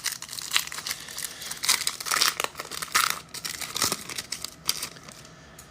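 Foil wrapper of a football trading card pack crinkling and rustling as it is torn open by hand, in quick irregular crackles that die down near the end.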